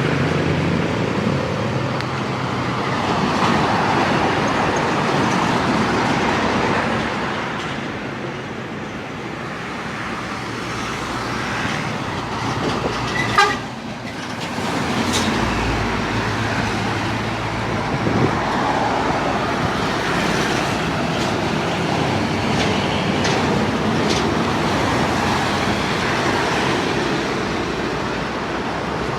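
Truck engine and road noise running steadily, with a short horn toot about halfway through.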